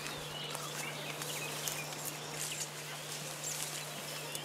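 Small birds chirping and twittering in quick, short calls over open-air ambience, with a steady low hum underneath.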